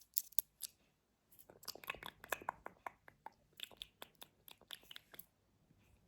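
Close-miked ASMR knocking and tapping: quick, crisp knocks and clicks in clusters. A few come at the start, a dense run follows about a second and a half in, and another run comes around the four-second mark, with short pauses between.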